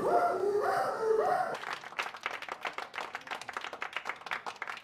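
A voice making wavering, animal-like calls for about a second and a half. An audience's clapping then takes over until the end.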